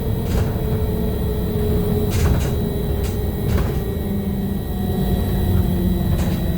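Cabin of a BKM-321 trolleybus: a steady low rumble with the thin whine of the electric traction drive, slowly falling in pitch over the first few seconds, and a few clicks and rattles from the body around the middle.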